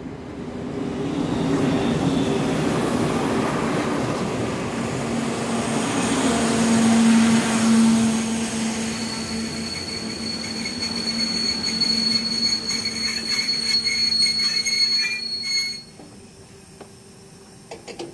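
Train running past: a rumble swells in, a steady high wheel squeal joins about halfway, and the whole sound cuts off abruptly a couple of seconds before the end.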